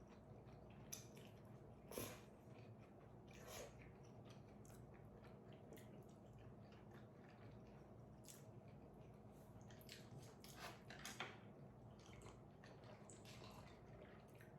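Faint eating sounds: chewing with a scattering of short soft clicks and squishes, the sharpest about two seconds in and again around eleven seconds.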